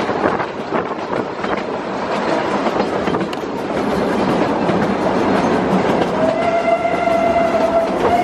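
Puffing Billy narrow-gauge steam train running, with a steady clatter of wheels on the rails. About six seconds in, the steam whistle sounds one steady note for roughly two seconds.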